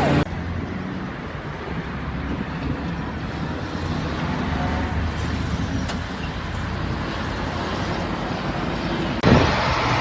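Steady motor-vehicle engine and road noise, a low running hum. The sound changes abruptly just after the start and again about a second before the end, where it becomes louder and brighter.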